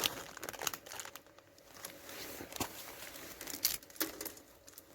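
Crinkling plastic packaging of instant noodles and their seasoning sachets being handled and torn open, in short scattered rustles and clicks.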